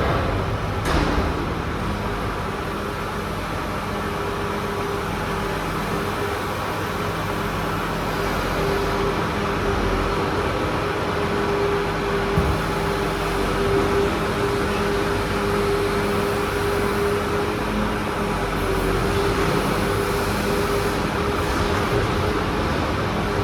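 Crane truck's engine running steadily, with a steady whine over the hum that grows stronger in the middle of the stretch.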